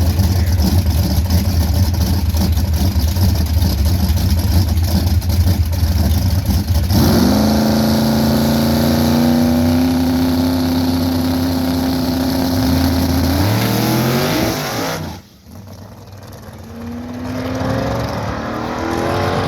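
Twin-turbo Ford Mustang V8 making a loud, rough rumble, then revving up sharply about seven seconds in and holding high revs. The pitch drops around thirteen seconds, the sound falls away briefly, then it builds again near the end.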